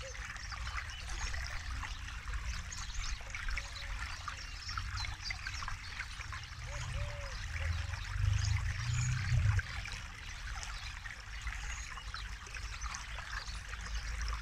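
Forest river flowing with a steady trickling rush, with a deeper rumble that swells for a couple of seconds around the middle.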